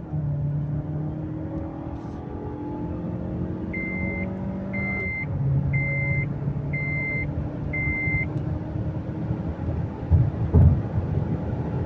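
2019 Mazda 6's direct-injection four-cylinder petrol engine pulling hard under acceleration from inside the cabin, its pitch climbing and stepping down at gear changes, on a test drive after new fuel injectors were fitted to cure a misfire. In the middle an in-car warning chime beeps five times, about once a second, and near the end comes a low thud.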